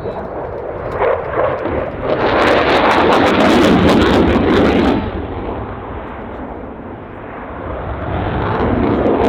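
Dassault Rafale fighter's twin Snecma M88-2 afterburning turbofans on a display pass: the jet noise builds to its loudest, with a crackle, from about two to five seconds in, fades, then swells again near the end.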